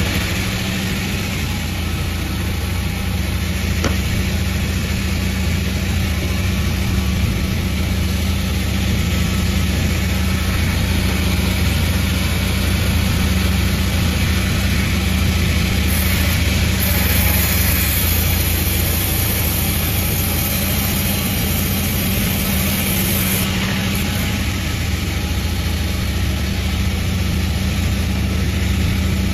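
Panda36 sawmill running steadily with a constant low hum, with a brighter hiss added for several seconds past the middle.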